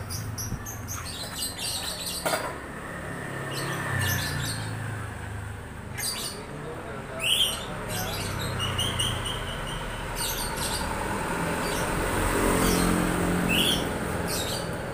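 Birds chirping in short, high calls at intervals, over steady background noise, with a few sharp knocks.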